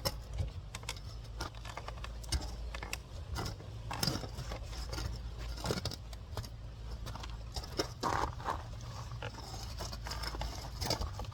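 Scattered clicks, taps and scrapes of hands and tools working a dirt bike tire onto its rim, over a steady low hum.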